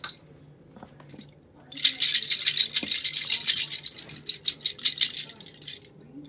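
Rattling from a kitten at play: a dense, rapid shaking rattle for about two seconds, which breaks up into scattered single rattles and clicks and stops near the end.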